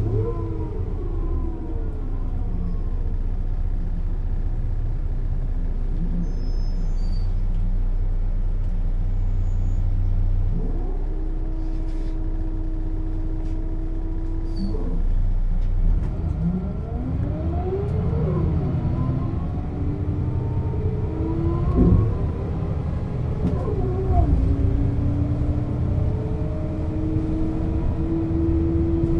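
Setra S 315 UL bus's diesel engine and ZF automatic gearbox heard on board: the engine winds down at first, runs steady for a while, then pulls away with its pitch rising and dropping through several gear changes before settling into a steady climb. A single louder knock comes about two-thirds of the way through.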